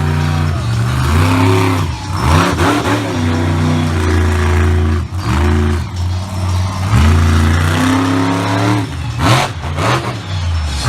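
Monster truck engine revving hard, its pitch swinging up and down over and over, with a brief drop-off about halfway through.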